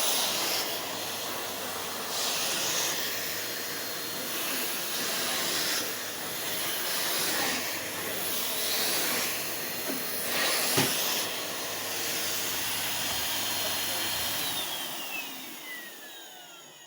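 Numatic Henry 160 compact vacuum cleaner running on carpet, its suction hiss surging every few seconds, with one sharp knock about eleven seconds in. Near the end it is switched off and the motor's whine falls as it winds down.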